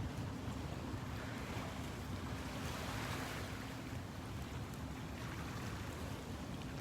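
Seaside ambience: waves washing and wind buffeting the microphone, with a faint steady low hum through the first half.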